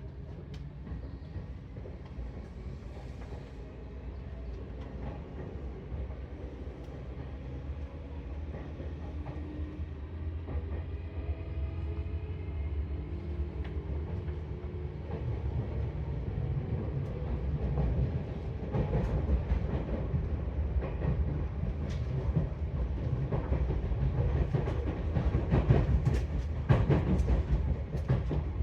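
Seibu 4000 series electric train running along the line, getting steadily louder, with faint whining tones. Sharp clicks of the wheels over rail joints come in the second half.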